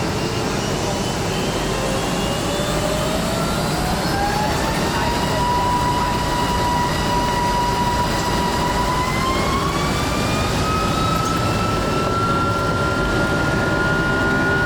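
Rolls-Royce RB211 turbofans of a Boeing 757-200 spooling up for takeoff, heard inside the cabin: a whine rises over the first few seconds, holds, then climbs again and settles at a higher steady pitch as thrust is brought up in two steps to takeoff power.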